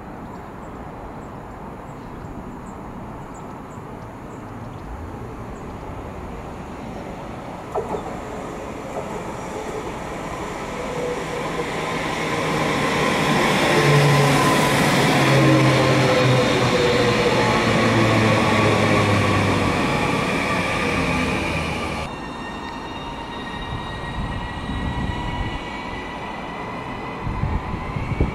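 A Northern passenger multiple-unit train approaching and passing close by. Its running noise builds to a loud peak, with pitched tones that drop as it goes past. After a sudden change, a second Northern unit at the platform gives off a rising whine.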